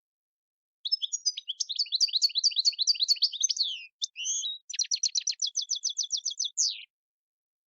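European goldfinch song: a fast twittering run of varied notes, a brief pause, then an even rapid trill ending on one falling note.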